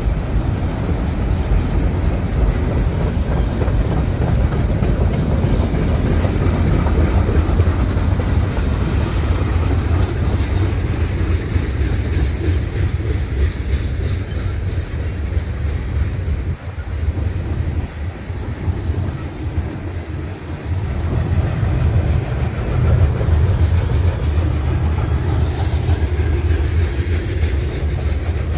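Freight train cars (autoracks, tank cars, a covered hopper) rolling past with a steady rumble of steel wheels on the rails. It eases briefly a little past the middle, then builds again.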